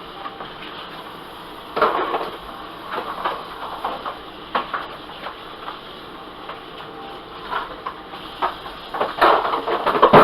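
Kitchen work noises: a run of knocks and clatters, like cookware and utensils being handled, over a steady hiss.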